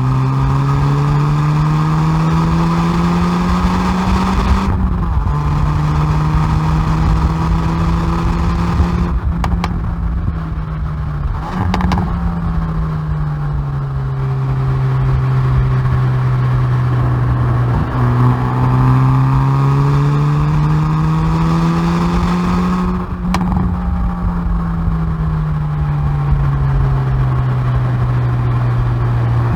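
Exhaust of a Hyundai i30N Performance's turbocharged 2.0-litre four-cylinder at full load on track: revs climb under acceleration and drop sharply at upshifts about five seconds in and again near twenty-three seconds. In between, the revs sink steadily as the car slows, with a few sharp exhaust cracks off throttle.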